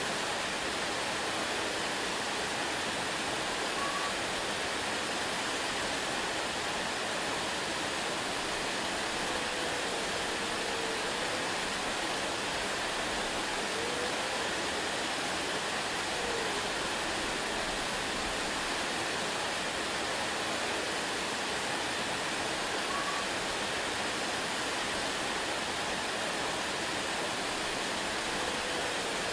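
Waterfall rushing in a steady, even hiss that does not change. A few faint, brief chirp-like tones rise over it now and then.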